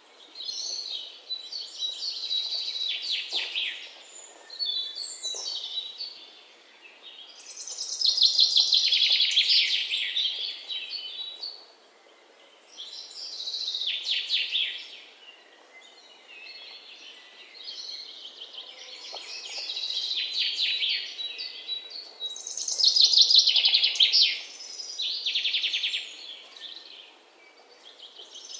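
Small birds chirping in repeated bouts of rapid, high chirps and trills, each bout lasting a few seconds with brief lulls between.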